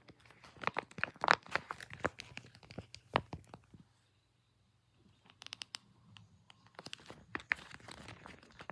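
Close-up crinkling and crackling handling noises from a squishy toy being handled. They come in quick clusters of sharp crackles, with a pause of about a second and a half near the middle.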